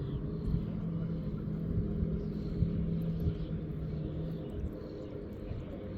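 A small boat motor humming steadily at low speed, cutting out about four and a half seconds in, with a few light knocks.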